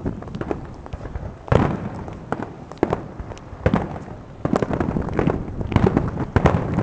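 Aerial fireworks bursting: a rapid, irregular series of sharp bangs and crackles, with the loudest reports about a second and a half in and again from about four to six and a half seconds, and low rumbling echoes between them.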